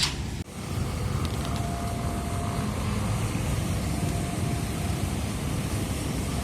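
Steady low rumble of vehicle noise, with a faint thin tone sounding twice.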